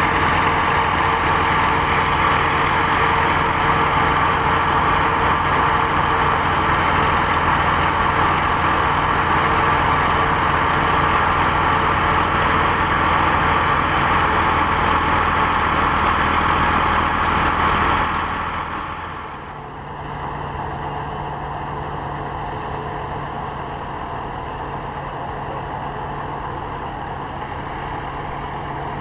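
An engine running steadily. About two-thirds of the way through its sound falls away and it settles to a quieter, steady running at a different pitch.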